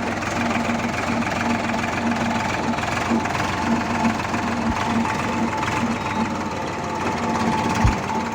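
Escort tractor's diesel engine running steadily with a pulsing knock, with a low thump near the end.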